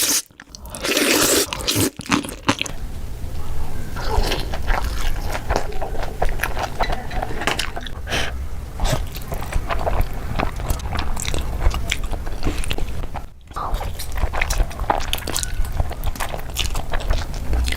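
Close-miked eating: a person bites and chews crunchy food in many quick, crisp crackles, over a low steady hum. The sound dips briefly about 13 seconds in, then the crunching goes on.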